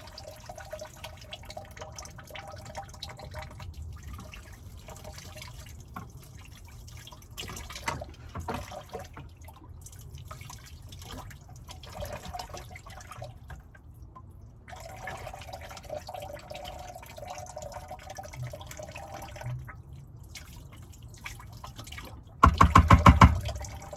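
Dishes being hand-washed at a small sink: water trickling and dripping, with light clinks of dishes and utensils, and a loud rapid rattle lasting under a second near the end.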